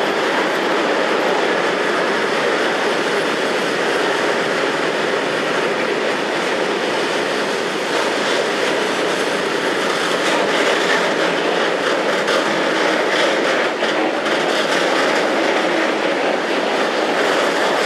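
Freight train wagons rolling past close by: a steady rumble of steel wheels on rail, with faint clicks now and then.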